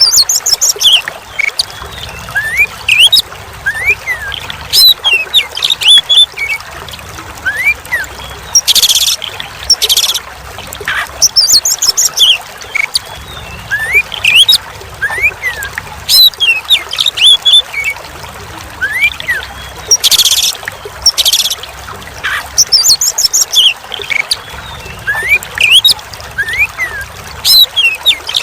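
Oriental magpie-robin (kacer) singing a varied song of whistled rising and falling notes, rapid trills and harsh notes, phrase after phrase, over a steady trickle of running water.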